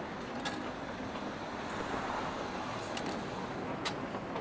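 Rainy café ambience: a steady wash of rain and room noise, broken by three sharp little clicks, about half a second in, at three seconds and just before the end.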